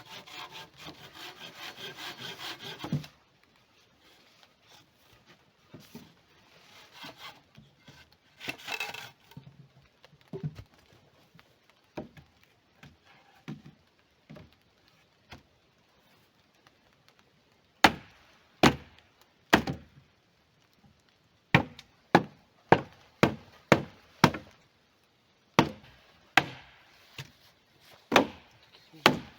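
Hand saw cutting wood with quick, rhythmic strokes that stop abruptly about three seconds in. After a stretch of scattered faint handling sounds, a series of sharp knocks on wood comes roughly once a second near the end.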